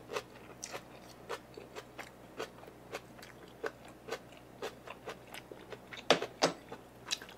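Close-miked chewing of boiled pork with fried vermicelli: crisp mouth clicks and crunches about twice a second, with two louder crunches around six seconds in.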